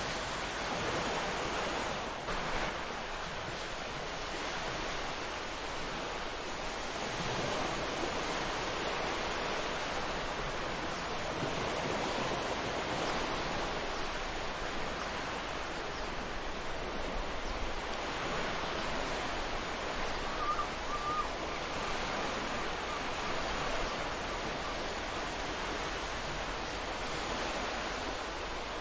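Ocean surf breaking and washing onto a sandy beach: a continuous rushing wash that swells and eases gently.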